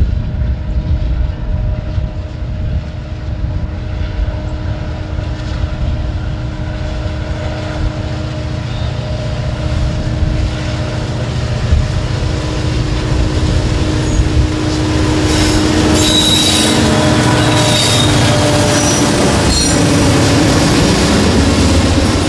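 Freight train passing: a steady diesel engine drone over a low rumble, then, about two-thirds of the way through, louder rolling of the cars with high-pitched wheel squeals.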